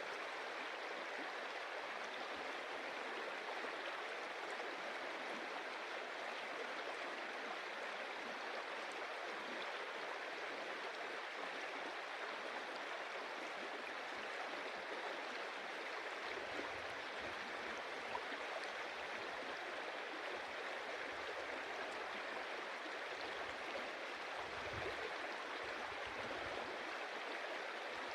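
A shallow stream running over stones, with a steady rushing and splashing of water.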